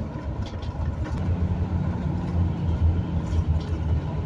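Road vehicle driving at highway speed, heard from inside the cabin: steady road and engine noise with a low droning hum that grows stronger about a second in.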